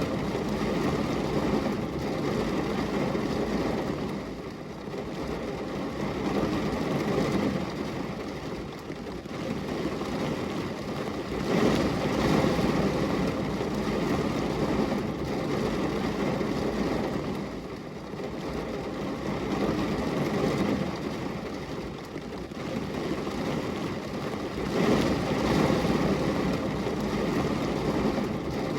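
Steady rain falling on a glass window, a deep-toned rushing hiss that swells and eases every few seconds.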